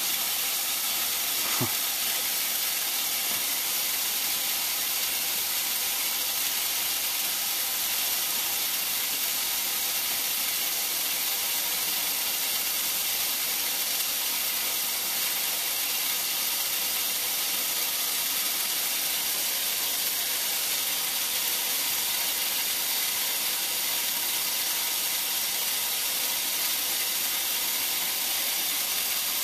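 Steady, even hiss of rushing water in a sump-pump setup, with no change through the whole stretch.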